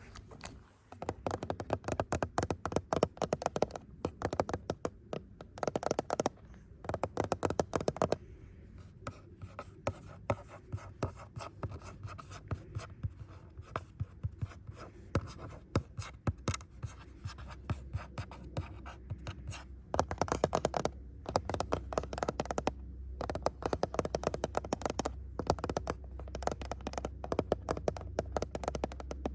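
Fingers scratching close-up on a rough surface: many quick, fine scratches in steady runs with brief pauses. A low rumble sits underneath and grows stronger about two-thirds of the way through.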